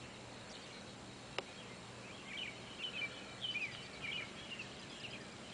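Small wild birds chirping: a scattered run of short, high chirps, thickest in the middle of the stretch, with a single sharp click about a second and a half in.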